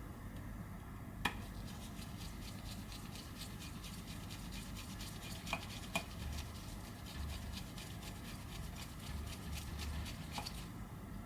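Faint clicking and light scratching of small repair tools handled against an iPhone 11's frame, with a few sharper clicks among a steady run of small ticks.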